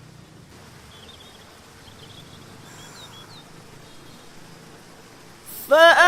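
Faint birds chirping and twittering in short high calls over a low hiss. Near the end the reciter's voice comes in loudly, chanting the next verse.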